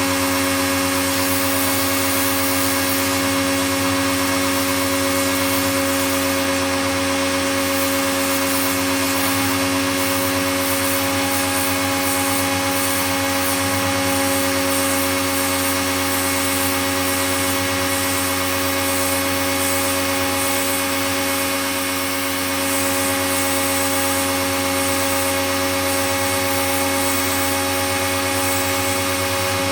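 Pro-Kleen 1600 pressure washer running steadily, a constant motor-and-pump hum with a hiss over it.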